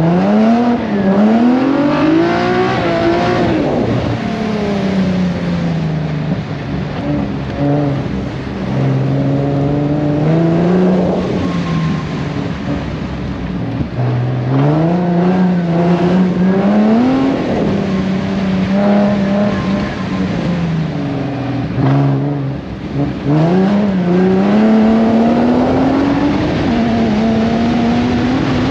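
Drift car's engine driven hard through a timed lap: its pitch climbs in each gear and drops back at each shift or lift, several times over. There are short lulls about 12 seconds in and again near 22 seconds.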